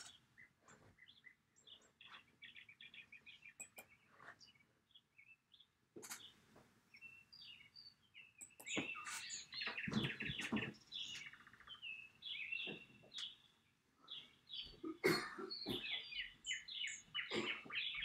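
Small birds chirping and twittering in quick runs of short notes, busier in the second half, with a few soft low thumps among them.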